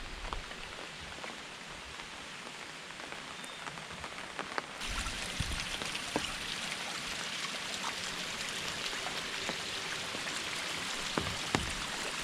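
Steady rain falling, with many separate drops clicking close by. It turns louder and brighter about five seconds in.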